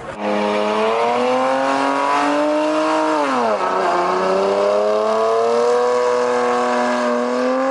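A car's engine held at high revs while it spins its tires in a sideshow burnout, with tire squeal and hiss over it. The revs climb, dip sharply about three seconds in, then climb again.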